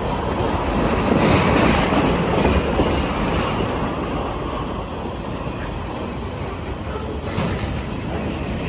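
Freight cars of a CPKC mixed freight train rolling past: a steady rumble of wheels on rail with short clicks as wheels cross rail joints, louder about one to three seconds in.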